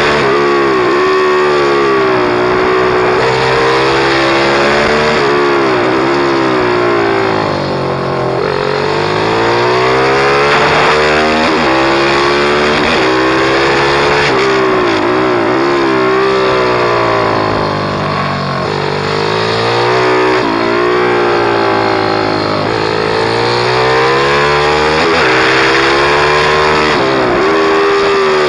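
Pit bike engine being ridden hard, its pitch climbing and dropping over and over as it revs up, shifts and eases off, with deeper dips near a third and two thirds of the way through.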